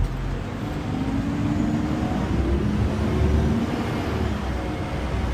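Garbage truck's diesel engine running steadily, its pitch shifting up and down a little with engine speed.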